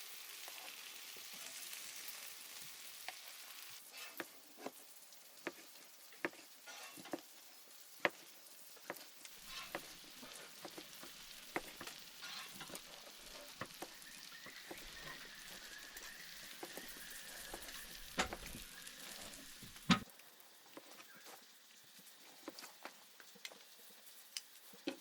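Food sizzling in a frying pan, with sharp clicks and taps of a utensil against the pan as it is stirred and turned; the loudest taps come about eight, eighteen and twenty seconds in.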